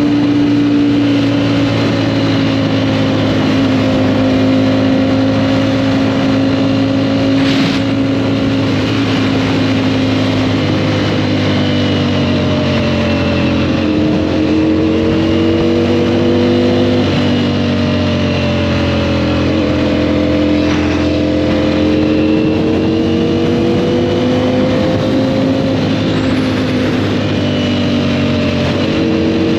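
Sport motorcycle engine running steadily under way, its note drifting gently up and down with throttle, with a few small steps in pitch.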